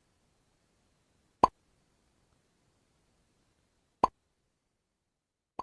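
A short pop sound effect played three times, about two and a half seconds apart, the last one quieter and cut shorter.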